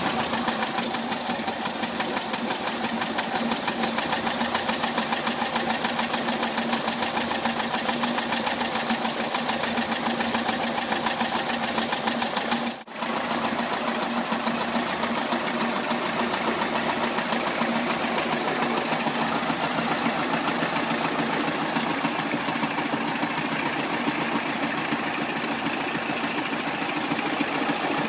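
Rebuilt Porsche 914 2.0-litre air-cooled flat-four engine idling steadily with a fast, even pulse, broken once by a short dip a little before halfway.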